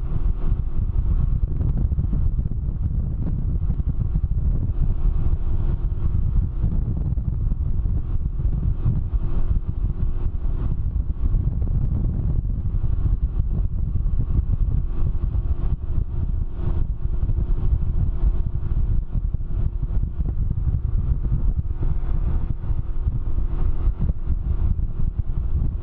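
Can-Am Ryker three-wheeler riding at speed: its engine runs steadily under heavy wind noise on the microphone.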